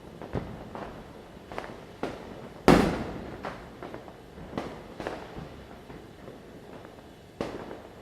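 Diwali firecrackers bursting at irregular intervals, a string of sharp bangs near and far, with one loud deep boom about a third of the way in that echoes off for a second or so.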